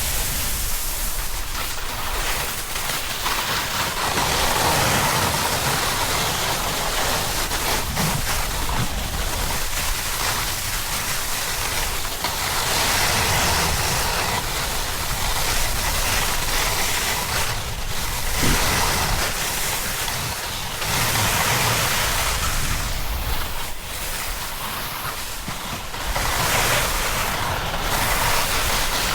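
Wind rushing over a helmet- or body-mounted action camera's microphone, mixed with a snowboard's base and edges scraping over snow during a descent. The noise swells and eases every few seconds as turns are made, with a couple of brief sharp knocks.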